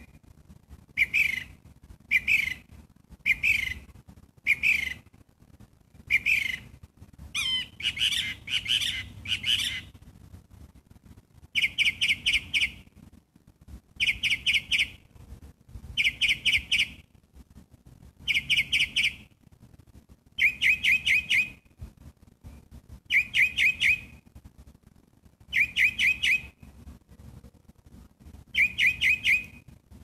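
A songbird, which the uploader takes for a catbird, singing loud, clear phrases over and over. It starts with single notes about once a second. From about twelve seconds in it switches to a quick run of six or seven notes, repeated every two to three seconds.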